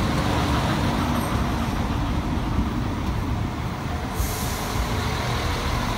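Irish Rail 22000 Class InterCity Railcar, a diesel multiple unit, moving close past along a station platform: a steady rumble of underfloor engines and wheels on the rails, with a brief high hiss about four seconds in.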